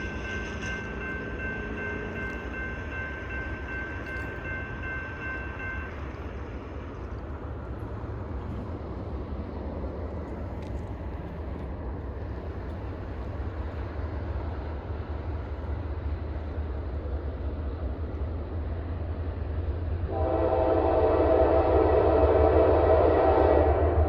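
Diesel locomotive approaching with a low engine rumble that slowly grows louder, then its air horn blowing loudly for about four seconds near the end.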